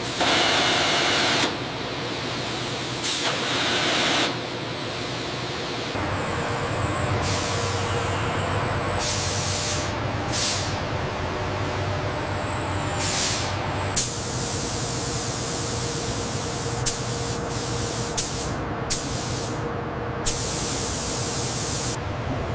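Industrial shop machinery with a steady hum, broken by repeated bursts of hissing spray or air. The loudest bursts come right at the start and again about three seconds in, and several short sharp clicks fall in the second half.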